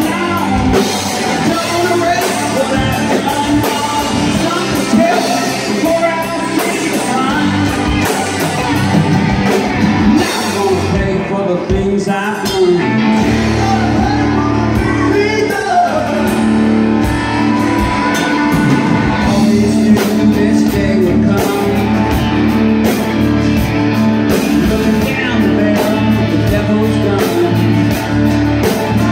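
Live rock band playing, with a lead vocalist singing over guitar, bass and drums; the bass fills out a little under halfway through.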